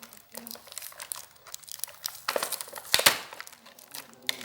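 Packing tape and wrapping crinkling and tearing in the hands as a taped parcel is pulled open, in irregular bursts, the loudest about two and three seconds in.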